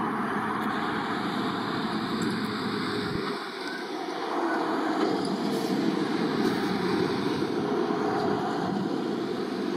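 Two E721-series electric local trains running past each other: a steady noise of wheels on rail and running gear. It grows louder about halfway through as the trains pass.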